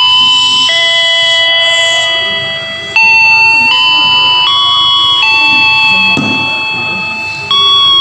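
Electronic announcement chime from a train's public-address system: a melody of sustained, bell-like notes stepping in pitch. Each phrase fades out and a new one starts abruptly, about three seconds and seven and a half seconds in.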